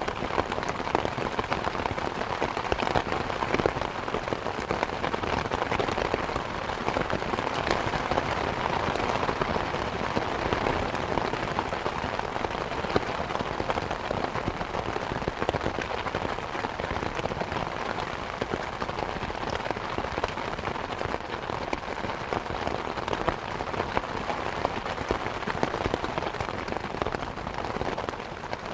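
Steady rain falling, a dense even patter of many drops on surfaces.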